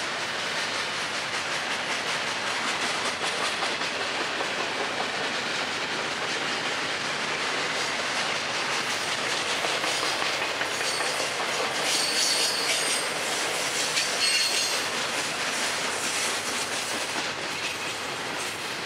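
Double-stack intermodal container cars of a freight train rolling past, a steady rumble with repeated wheel clicks over the rail. About two-thirds of the way through, high-pitched wheel squeal rises over it for a few seconds.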